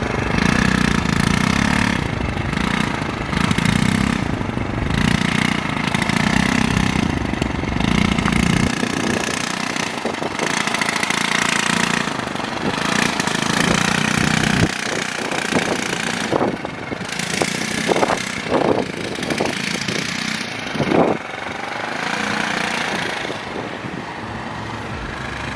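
Small moped engine running, its note swelling and easing over and over as the throttle is worked. About nine seconds in the low engine hum drops away, leaving a steady hissing rush.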